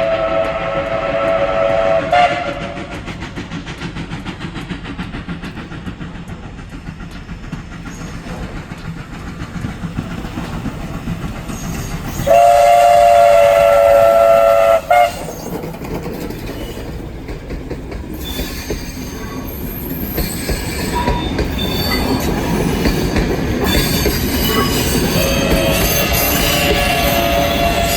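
Old-fashioned train passing, its horn sounding long two-note blasts at the start and, loudest, about halfway through, cutting off abruptly. Between the blasts the wheels clack steadily over the rail joints, with high wheel squeal in the later part.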